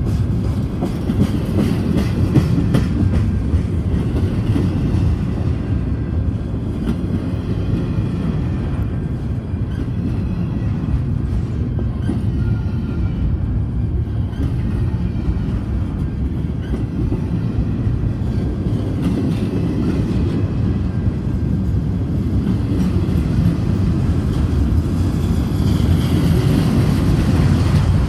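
Double-stack intermodal well cars rolling past close by: a steady rumble of steel wheels on rail, with clicks as the wheels cross rail joints.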